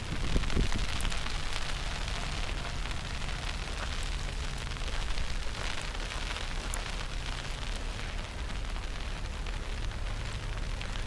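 Snowstorm street ambience: a steady, even hiss like rain over a low rumble, typical of wind and falling snow on an outdoor microphone.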